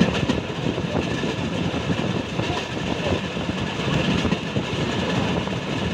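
A train running along the track, its wheels rumbling and rattling steadily on the rails.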